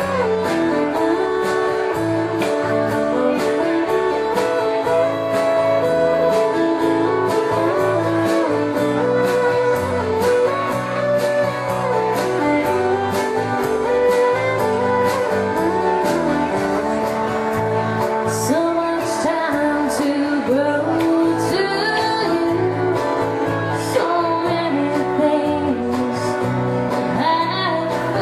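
Country band playing a song: strummed guitars over a steady drum beat, with a wavering melodic lead line on top.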